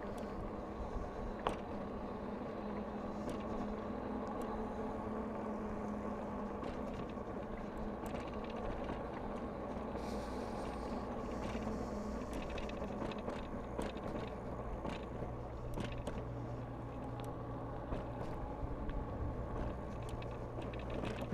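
Bicycle being ridden: a steady running hum with road and wind noise, and scattered small clicks and rattles.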